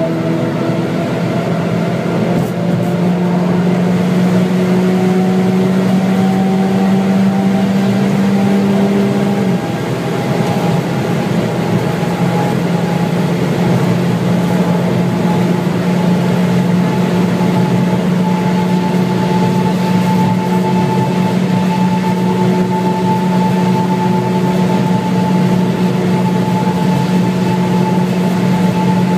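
Stage 2-tuned VW Scirocco 2.0 TSI turbocharged four-cylinder heard from inside the cabin, pulling at high speed down a long straight. Its note climbs slowly, with one brief dip and a change in pitch about ten seconds in, like an upshift. Wind and tyre noise run underneath.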